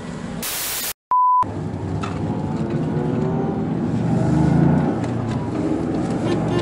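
About half a second in, a short burst of hiss cuts to a brief dropout and a short steady beep. Then the Toyota GR Yaris's turbocharged three-cylinder engine runs under acceleration, heard from inside the cabin and loudest about four and a half seconds in.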